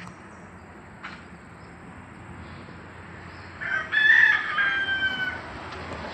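A rooster crowing once, a single drawn-out call of about two seconds starting a little past halfway.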